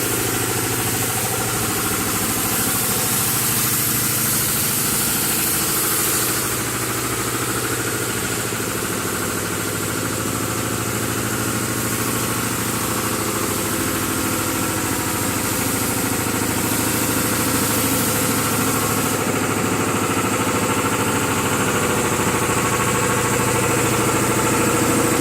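Jet boat engine idling steadily, with a hiss over the top, for the whole stretch.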